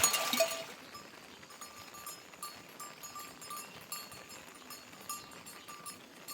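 A small bell clinking over and over in a loose rhythm, loud at first and faint from about a second in.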